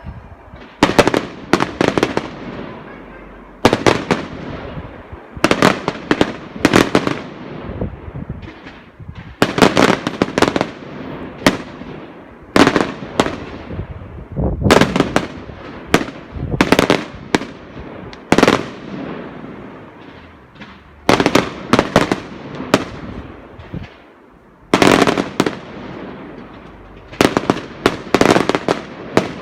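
Fireworks going off: a string of loud, sharp bangs, singly or in quick clusters every second or two, each trailing off in echo and crackle.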